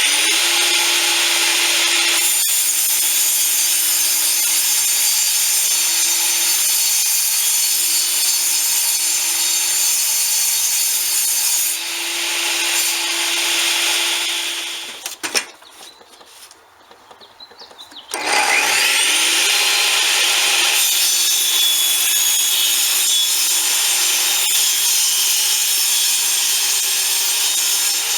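Electric power saw cutting wood, its motor running steadily for about fifteen seconds. It stops briefly, then spins back up about 18 seconds in and cuts again.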